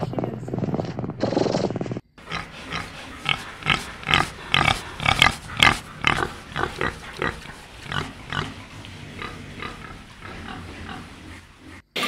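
A cat purring for about two seconds, then an abrupt change to pigs grunting: a run of short calls, several a second at first, then sparser and fainter.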